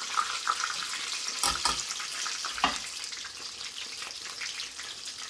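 Breaded chicken fillet shallow-frying in sunflower oil in a frying pan: a steady sizzle with small crackles, with two sharp knocks, about a second and a half in and near the three-second mark.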